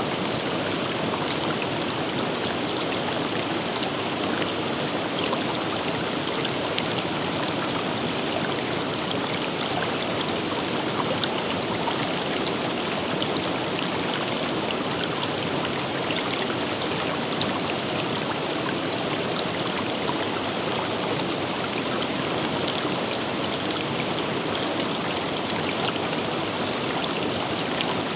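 Forest river running: a steady, even rush of flowing water over rocks, with fine splashes and droplet ticks throughout.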